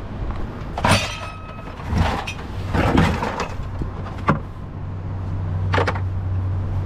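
A series of sharp knocks and clatters, about five of them a second or so apart, over a low steady hum that grows stronger partway through.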